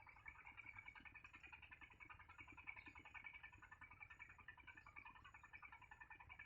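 Faint, steady chorus of rapid animal chirps and trills, with a high thin note repeating about twice a second above it.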